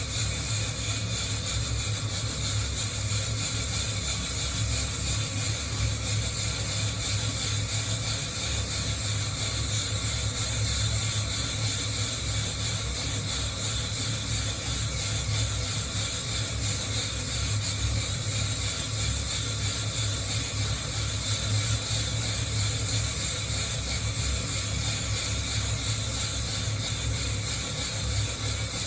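Coffee beans rattling and rubbing against a hand-held wire-mesh roasting net as it is shaken continuously, over a steady hiss.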